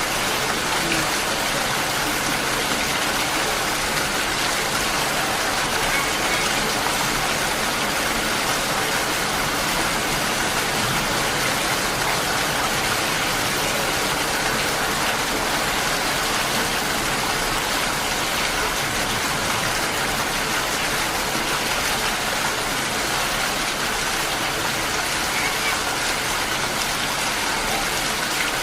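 Heavy rain pouring steadily, an even, unbroken hiss of rain falling on surfaces.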